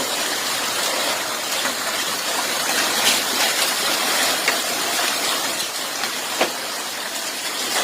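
Heavy rain and hail driven by strong wind: a steady rushing noise with a few scattered sharp hits of hailstones.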